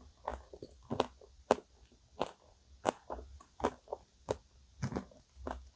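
Close-miked chewing, with sharp wet mouth clicks and smacks at a steady pace of about three every two seconds.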